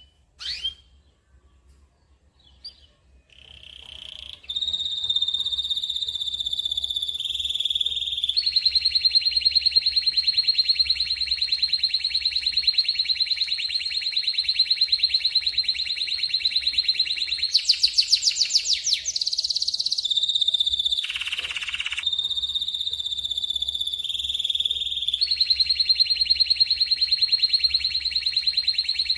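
Canary singing long, fast rolled trills, each held for several seconds before switching to another, with a few short chirps before the song begins about four seconds in. A higher, faster trill comes about 17 seconds in and a quick falling sweep about 21 seconds in.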